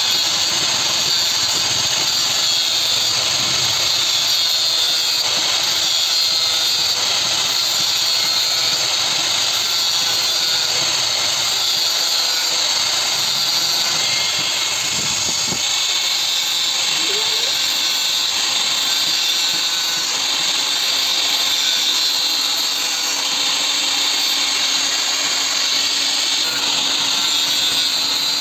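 Power tool running steadily without a break: a loud, high-pitched hiss with a faint steady whine underneath.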